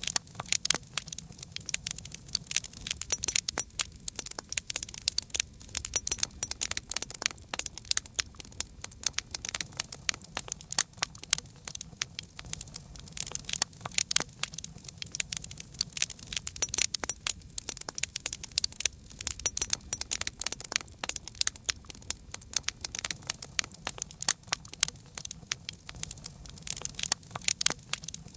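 Wood fire crackling: dense, irregular pops and snaps from burning logs, over a low steady rumble.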